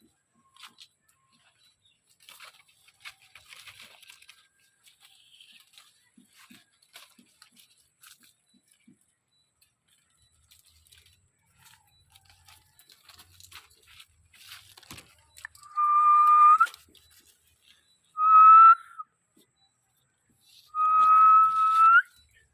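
Parrot whistling three times in the second half, each a steady whistled note of about a second that rises sharply at the end. Faint scattered clicks and rustles come before it.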